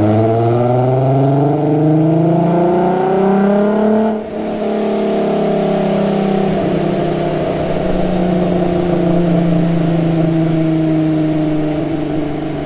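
3.2-litre VR6 engine of a Mk4 Golf on a dyno pull: the note climbs steadily in pitch under full throttle for about four seconds, then drops sharply as the throttle is lifted. It runs on at a lower, slowly falling note.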